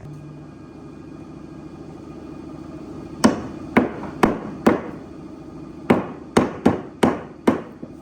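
Hammer blows in a woodworking shop: four sharp strikes about half a second apart, a short pause, then five more, over a steady low hum.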